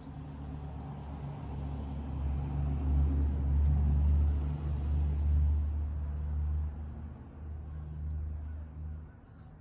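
Low engine drone of a passing motor vehicle, swelling to a peak a few seconds in and then fading away.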